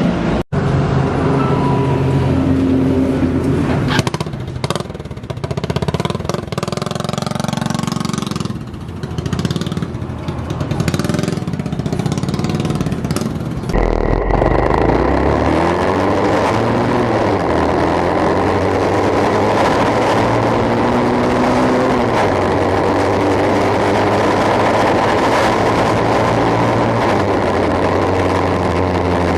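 Motorcycle engine running through a bamboo exhaust, revved up and down in the first half, then changing abruptly about halfway to a louder, steady run.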